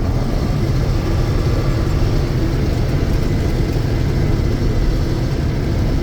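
John Deere 6620 Turbo combine running steadily while harvesting soybeans: a constant low drone of the turbo diesel engine and threshing machinery.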